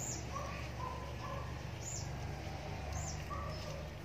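Small birds chirping: scattered short, high chirps and a few lower notes over a steady low rumble.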